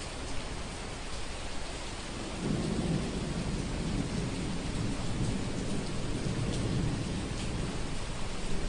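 Steady rain falling with scattered drop ticks, and a low rolling rumble of distant thunder that swells about two and a half seconds in and fades out after a few seconds.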